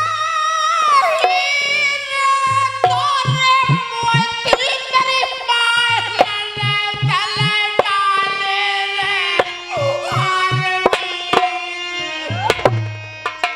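Dhola folk singing: a voice sings a melodic line with sliding, bending notes over a hand-drum rhythm of deep booming bass strokes and sharp slaps.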